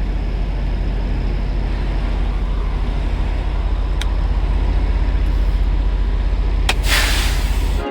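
Semi truck's diesel engine idling with a steady low rumble. A sharp click comes about four seconds in, and near the end a click is followed by a short loud hiss of air from the air brakes.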